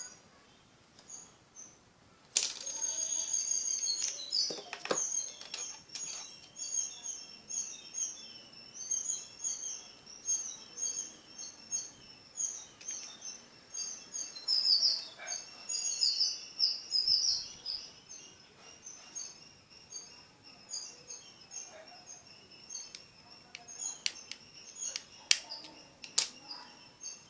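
Small birds chirping rapidly and repeatedly in short high-pitched calls, starting a couple of seconds in. A few sharp clicks come with them, near the start and near the end, as the phone's plastic casing and back cover are handled.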